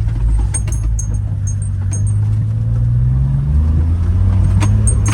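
Honda mini truck's small engine running under way in second gear, its note rising slowly with speed and then dropping back about three and a half seconds in. Scattered light clicks and rattles from the cab over rough ground.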